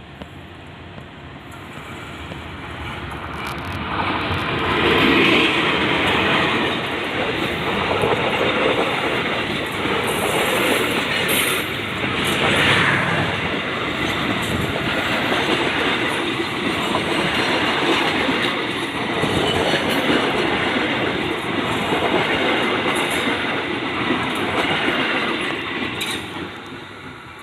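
Passenger train passing close by, its wheels clattering over the rail joints with some wheel squeal. It grows louder over the first few seconds, holds for about twenty seconds as the carriages roll past, and fades near the end.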